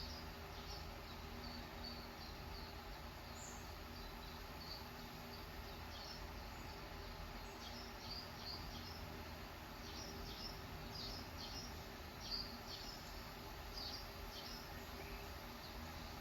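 Small birds chirping, short high chirps in quick, irregular runs, over a steady low background hum.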